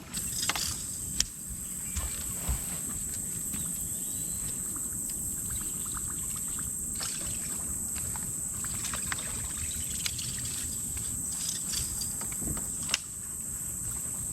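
Steady high buzzing of insects over an outdoor background, with scattered brief clicks and taps throughout.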